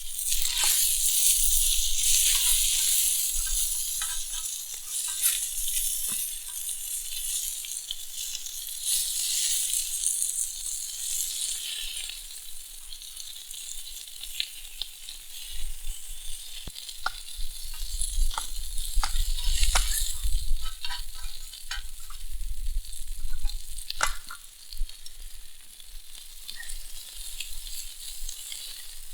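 Bacon-wrapped chicken poppers sizzling in freshly added cooking oil on a campfire hotplate. The sizzle is loudest for the first dozen seconds, then settles lower with scattered sharp pops. There is a low rumble of wind on the microphone in the middle.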